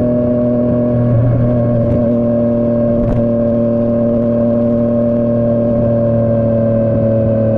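Yamaha MT-09's three-cylinder engine through a Dominator GP3 aftermarket exhaust, running steadily at highway cruising speed, its pitch easing very slightly downward.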